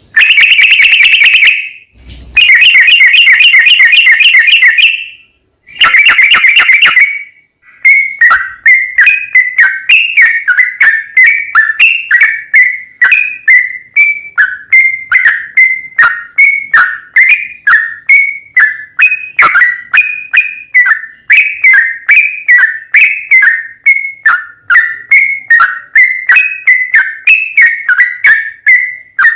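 Yellow-vented bulbul (trucukan) song: three loud rapid trills in the first seven seconds, then a long, even run of short repeated chirping notes.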